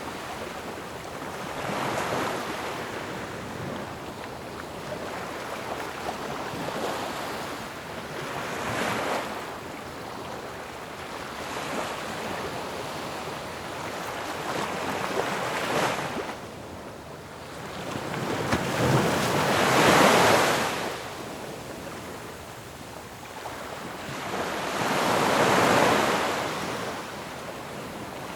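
Ocean waves breaking on shore in a steady wash of surf. Louder crashes come every few seconds, the biggest about two-thirds of the way through and near the end.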